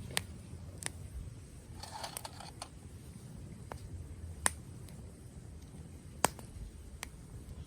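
Wood campfire crackling: sharp single pops every second or so, with a short run of crackling about two seconds in, over a low steady rumble.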